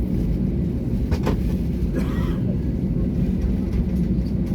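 Steady low cabin rumble of an easyJet Airbus A320neo's engines and airframe, heard from a passenger seat. A few faint clicks come just after a second in, and a short hiss follows around two seconds.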